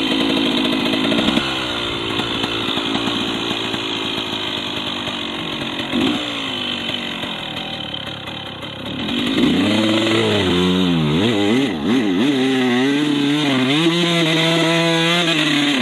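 KTM 150 two-stroke enduro motorcycle engine running at fairly even throttle, then, about two-thirds of the way in, louder and revving up and down over and over.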